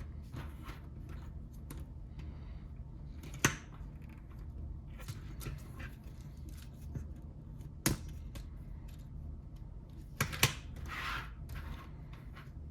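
Small plastic Lego pieces being handled, with faint rustling and ticking and a few sharp clicks, two of them in quick succession near the end, over a steady low hum.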